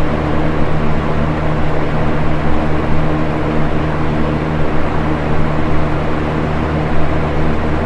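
Box fan running steadily: an even rushing of air with a low motor hum underneath.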